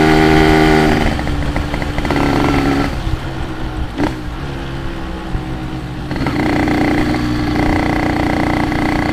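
Yamaha RX-King's single-cylinder two-stroke engine under way. Its note is strong for about a second, then eases off for several seconds, and picks up again steady about six seconds in. There is a sharp click about four seconds in.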